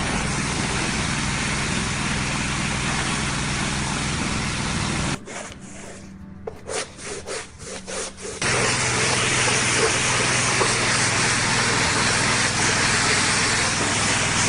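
Pressure washer spraying water over a car, with a steady pump hum under the hiss. The spray stops about five seconds in, gives a few short spurts, then comes back louder at about eight seconds.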